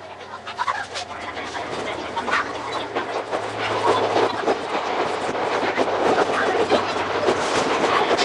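Iga Railway 200 series electric train, a former Tokyu 1000 series set, running on the rails with wheel clicks over rail joints. The clicks come thick and fast over a rolling rumble that builds up over the first few seconds.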